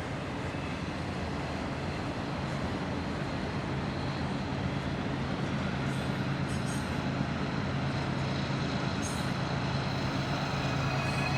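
Steady low rumble of a large vehicle's engine running, with street traffic noise and a few short, faint high ticks.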